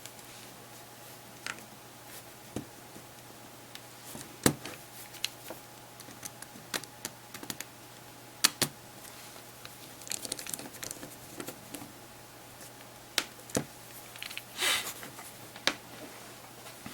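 Scattered small clicks and taps of hands handling a disassembled media player's parts and tools on a work surface, with two louder clicks about four seconds apart and a brief rustle near the end.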